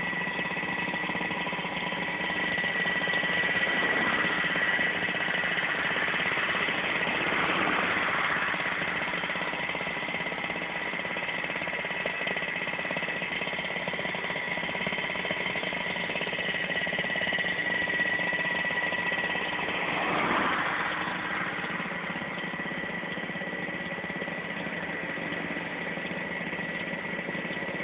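A machine running steadily, with a constant high whine over a low drone. It swells briefly a few times: about four, eight and twenty seconds in.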